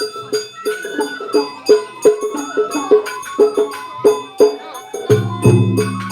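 Festival hayashi music: a flute melody over a quick, steady beat of struck percussion, with high ringing tones. A low steady tone joins about five seconds in.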